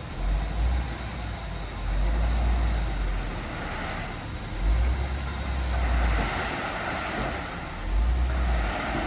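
Heavy diesel earthmoving machinery running, a deep low rumble that swells and eases four times over a steady mechanical hiss.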